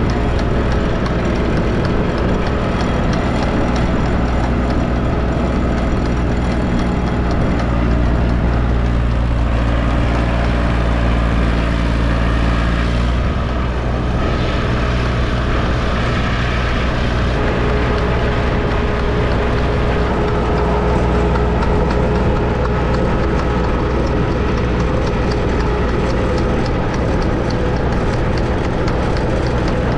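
Fishing boat's engine running steadily, a constant low drone whose pitch pattern shifts slightly about halfway through.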